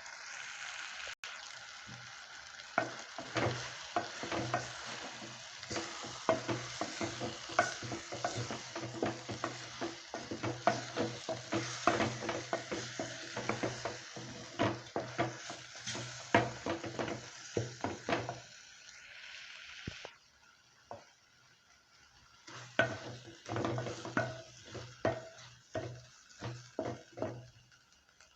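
Chicken and spices sizzling as they fry in a pot while a spoon stirs them, scraping and knocking against the pot in quick strokes. The stirring pauses briefly about two-thirds of the way through, then picks up again for several seconds, while the sizzle has dropped off.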